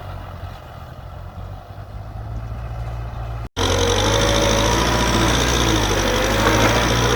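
Tractor engine running in a muddy field; about halfway through, an abrupt cut gives way to a louder, closer engine with a wavering pitch.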